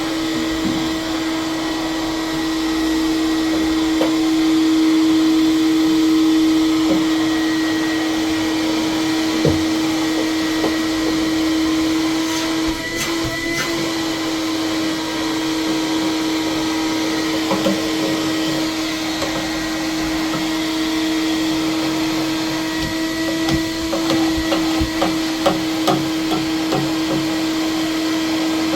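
Vacuum cleaner running steadily with a constant hum, with scattered clicks and knocks that come thickest near the end.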